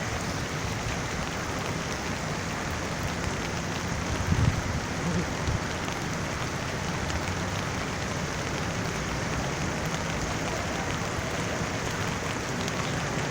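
Heavy storm rain pouring down in a steady hiss with a patter of drops, with a brief low rumble about four and a half seconds in.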